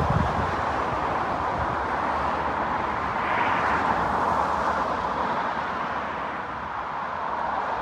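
Class 156 diesel multiple unit running away along the line: a steady rumble and rush of its underfloor diesel engine and its wheels on the rails.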